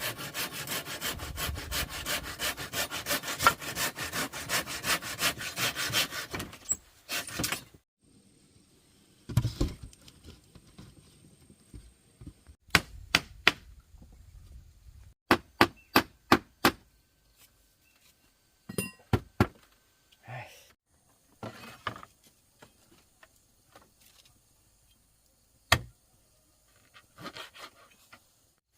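Fast, even strokes on wood for about six seconds, then scattered sharp clicks and knocks.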